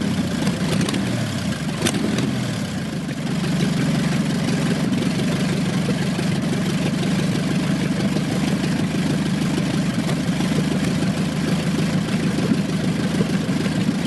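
The 24-litre Napier Lion W12 aero engine of the 1929 Napier Bentley running on stub exhausts. Its revs fall away over the first few seconds, then it settles into a steady idle.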